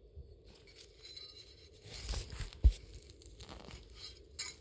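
A garlic plant being loosened and pulled from the soil: a rustling, tearing scrape about two seconds in, a sharp thump right after it, and a brief crackle near the end.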